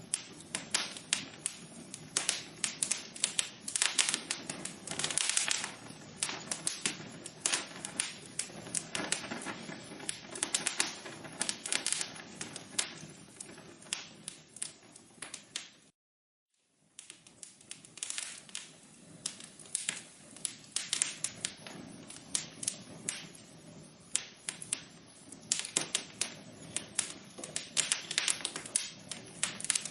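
Fire burning in a fireplace, crackling with dense, irregular pops and snaps over a soft hiss. About halfway through the sound cuts out completely for under a second, then fades back in.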